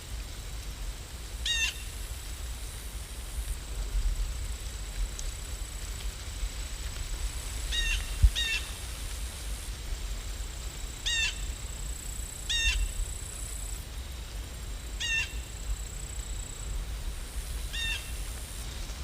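A bird giving short calls about seven times at irregular intervals, over a steady rain-like hiss and low rumble. There is one dull thump about eight seconds in.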